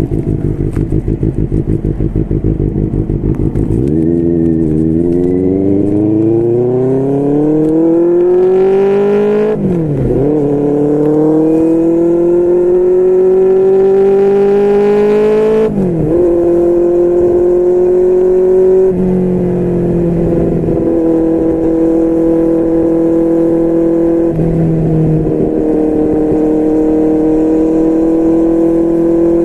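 QJMotor SRK600 inline-four through a Yoshimura R11 exhaust: a low pulsing engine note, then the revs climb steadily as the bike accelerates, with two upshifts about ten and sixteen seconds in, before settling into a steady cruise.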